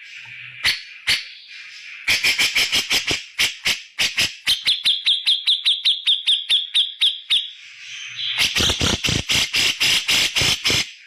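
Cucak jenggot (grey-cheeked bulbul) giving loud, rapid series of sharp call notes, about eight a second, with a run of higher ringing notes in the middle and a dense chattering burst near the end. These are the loud 'shots' that bird keepers play to rile up other birds.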